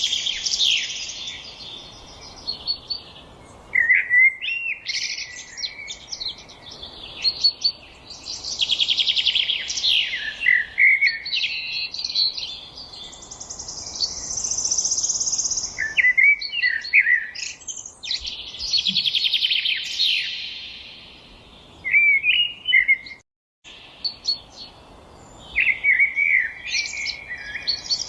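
Songbirds singing: repeated trilled and warbled phrases a few seconds apart, with a brief cut to silence a little over three-quarters of the way through.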